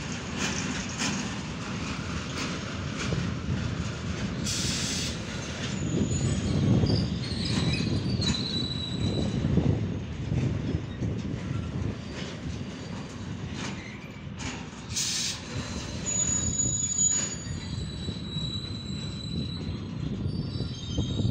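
Intermodal freight train of pocket wagons carrying lorry semi-trailers rolling past, its wheels rumbling on the rails, with high-pitched wheel squeal coming and going from about seven seconds in.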